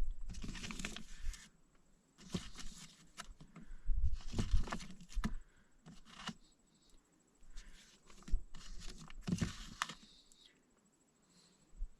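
Rustling and crinkling in several separate bursts, with a few knocks among them: food and its packaging being handled while a sandwich is put together.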